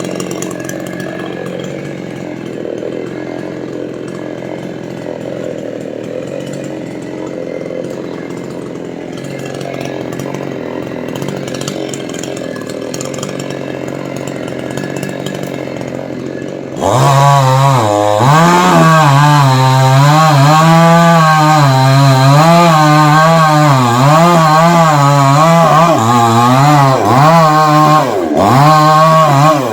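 Chainsaw running quietly at first. A little over halfway through it suddenly jumps to full throttle and gets much louder, its pitch wavering up and down as it works under load through the trunk of a dried coconut tree. It drops briefly just before the end.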